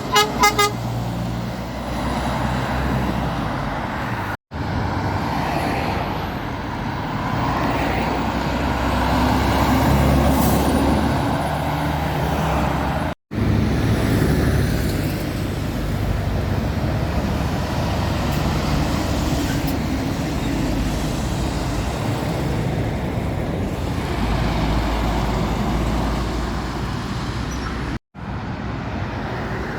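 Heavy goods vehicles and other traffic passing on a main road, a steady wash of engine and tyre noise, heard in several clips joined with abrupt cuts. A horn gives quick toots right at the start.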